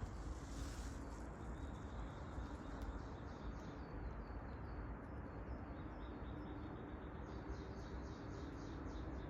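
A small songbird singing a fast run of short, falling chirps, starting about three seconds in and going on to the end, over a steady outdoor hiss and low rumble.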